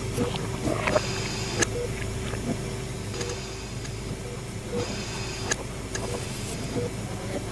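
Layered haunted-hospital ambience: a continuous low mechanical hum with a steady held tone, scattered sharp clicks and ticks, and short patches of hiss that come and go every couple of seconds.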